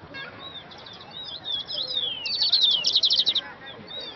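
Several small songbirds chirping and calling with short, high, falling notes, joined a little past two seconds in by a fast, loud trill of rapid repeated notes lasting about a second.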